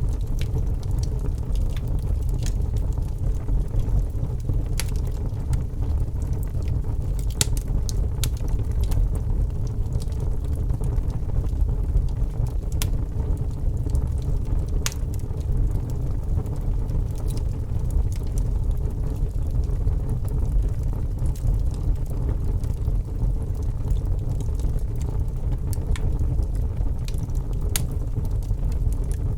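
Wood fire burning in a fireplace: a steady low rumble with scattered sharp crackles and pops at irregular moments.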